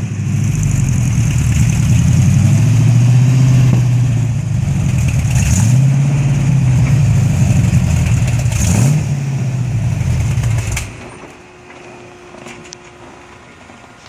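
Ford 360 big-block V8 with headers and glass-pack mufflers running and revved several times, then shut off abruptly about eleven seconds in, leaving only faint background noise.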